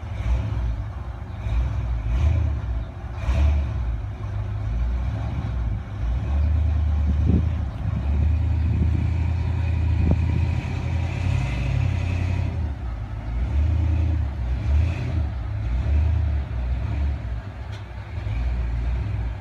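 Vehicle engine running at low speed while reversing a boat trailer, a steady low rumble that swells and eases.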